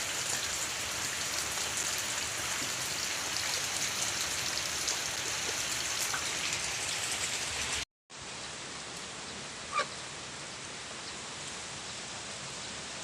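Steady rain falling, a dense even hiss of drops. It cuts out completely for a moment just before 8 s and resumes a little quieter. A single short pitched call is heard about 10 s in.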